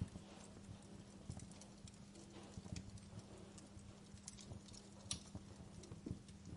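Wood fire crackling: irregular snaps and pops over a low steady hum, with a sharper pop about five seconds in.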